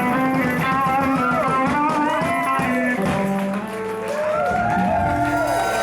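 Live band jam led by guitar, its lead notes bending up and back down over a steady bass line.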